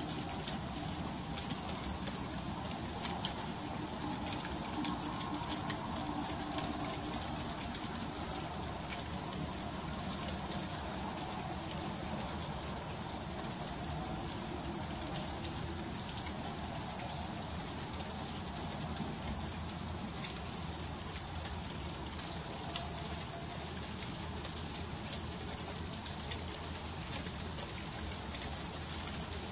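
Freezing rain falling steadily: a constant hiss made of many small, quick ticks of drops striking.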